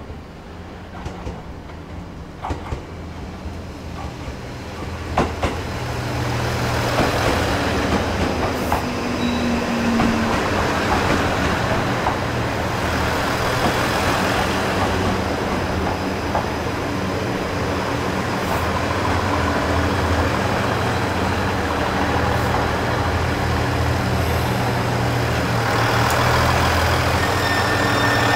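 JR Central HC85 series-hybrid diesel-electric train pulling into the station. Wheel clicks over rail joints grow louder over the first several seconds, then give way to a steady low drone of the engines and running gear. Thin high whines come in near the end.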